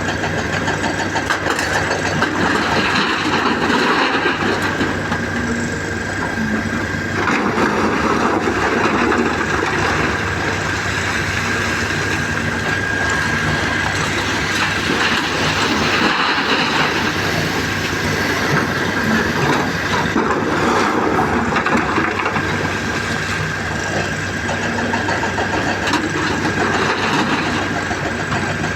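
Caterpillar 336 hydraulic excavator's diesel engine running steadily under working load, swelling a little now and then, with a steady high whine over it.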